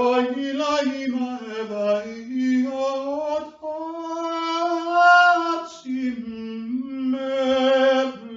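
A single voice singing unaccompanied in long, drawn-out held notes that slide slowly up and down in pitch, with the loudest note about five seconds in.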